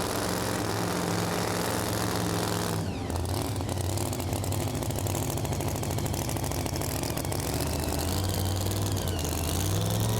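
Large pulling-truck engine idling steadily, its note changing about three seconds in and rising slightly near the end.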